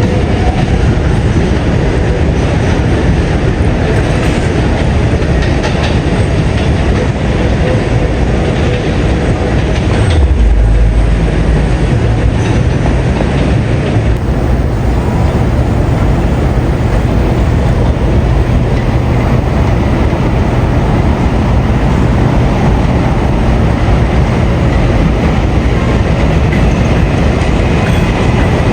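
R142A subway train running along the track, a steady loud rumble with wheels clattering over the rail joints; a deeper low hum sets in about ten seconds in.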